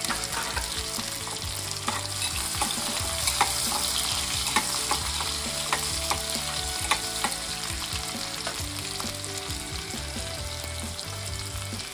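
Chopped shallots sizzling in hot oil in an aluminium pressure cooker, with a metal spoon stirring them and clicking against the pot now and then.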